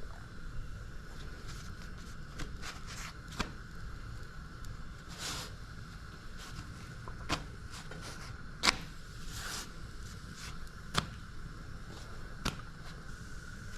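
Stovetop cooking sounds: sharp clicks and pops every second or two over a steady background hum.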